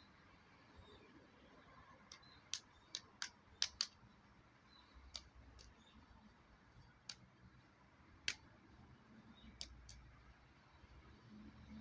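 About a dozen short, sharp clicks at irregular intervals, several close together a few seconds in and more scattered later, over faint background hiss.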